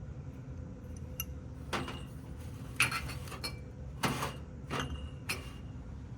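Dishware clinking: about seven sharp clinks spread over a few seconds, several ringing briefly, over a steady low background hum.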